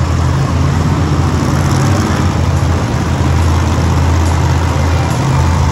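Monster trucks' supercharged big-block engines idling together in a steady low drone.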